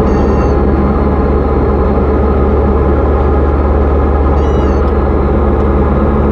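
Steady engine and propeller drone of a Diamond DA40 single-engine plane in flight, heard inside the cockpit. Two brief faint high-pitched tones sound over it, one right at the start and one about four and a half seconds in.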